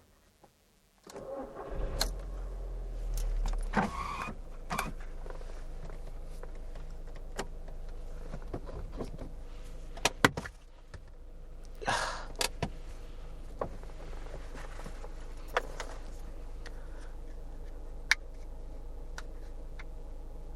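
A car engine starts about a second in and then idles with a steady low hum, with scattered clicks and rattles of handling over it.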